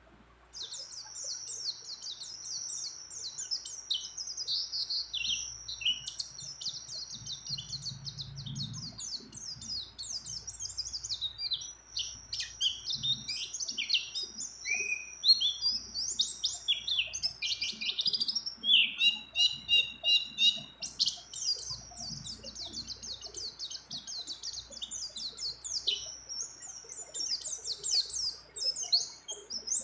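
White-eye (pleci) singing a fast, unbroken song of high chirps and trills, with phrases mimicking other birds.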